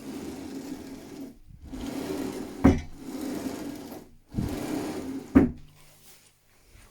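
A small handheld power tool motor running in three bursts of one to two and a half seconds, working on wood, with two sharp knocks.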